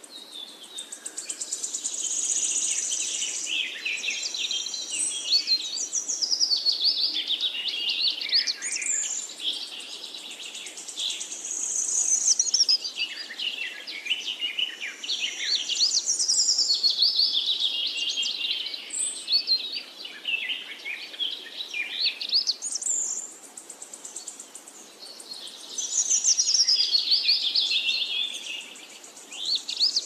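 Songbirds singing: repeated bursts of rapid high chirps and trills, each lasting a few seconds, with short pauses between.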